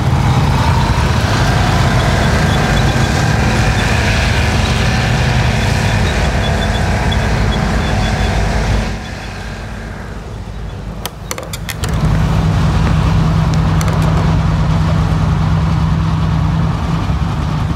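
Low rumble of tank engines running, which drops away about nine seconds in. A few sharp clicks follow, and a steady low drone picks up again about twelve seconds in.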